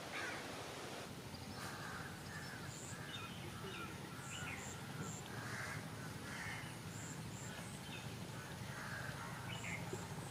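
Birds calling in open country: many short, scattered calls and faint, high, repeated chirps over a steady low background.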